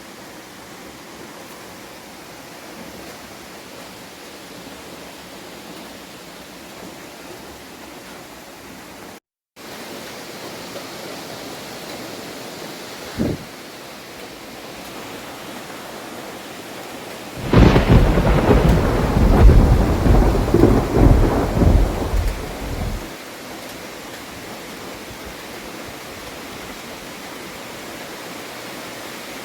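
Heavy tropical rain falling steadily, with a short thump about thirteen seconds in; then a loud thunderclap about seventeen seconds in that rumbles on for some five seconds before dying back to the rain.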